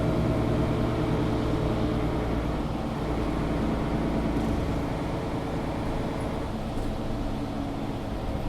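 Mercedes-Benz O530 Citaro G articulated bus heard from inside while riding: steady engine and running noise, with the deep engine tones easing off about halfway through.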